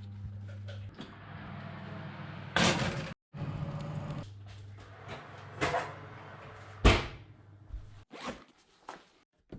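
A run of short handling sounds from food and bag preparation: rustling and scraping, with sharp louder swishes or zips about two and a half, five and a half and seven seconds in, and a low steady hum under much of it. It breaks off abruptly several times, with silent gaps between cuts.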